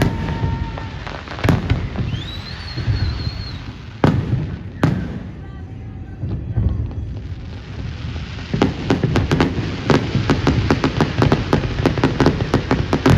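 New Year fireworks going off: several loud bangs in the first five seconds with a rising whistle between them, then from about eight seconds a rapid crackle of many pops a second.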